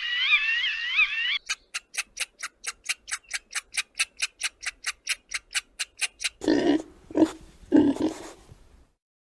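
High chirping calls, then an even run of sharp clicks about five a second for some five seconds, then a few low pig grunts, the loudest sounds here.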